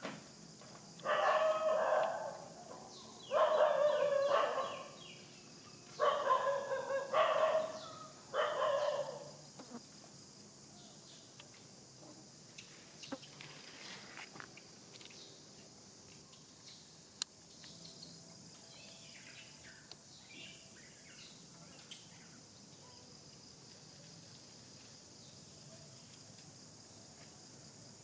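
Several loud animal calls in a row during the first nine seconds, each a second or two long and some broken into several notes, over a steady high insect drone; afterwards only the insect drone and a few faint clicks remain.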